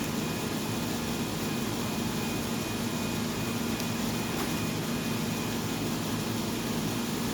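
A steady low mechanical hum with an even background hiss, unchanging throughout, with a couple of faint clicks.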